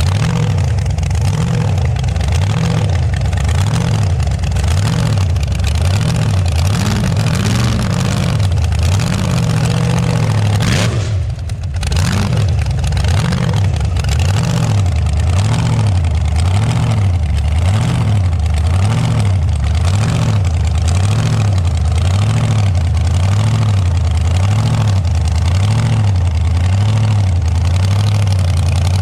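Vehicle engine running steadily, its low note rising and falling in a regular swell about once a second, with a brief drop just before the middle.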